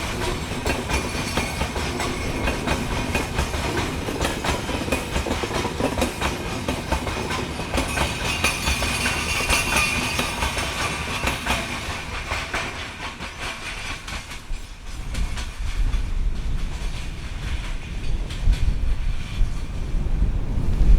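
Train rolling past, its wheels clattering over the rail joints; the clatter fades away about thirteen seconds in. From about fifteen seconds on, gusty wind buffets the microphone.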